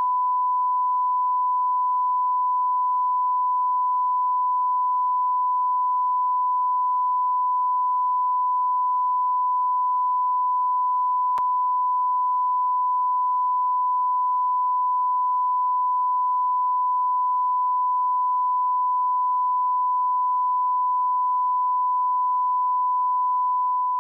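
A single electronically generated pure tone held at one steady high pitch without a break, like a test-tone beep.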